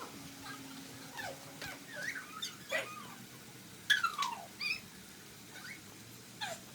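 A kitten mewing: a string of short, high cries that fall in pitch, the loudest about four seconds in.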